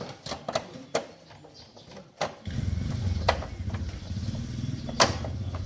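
A few sharp clicks and knocks, then about halfway through a small motorcycle engine starts and settles into a steady, rapidly pulsing idle.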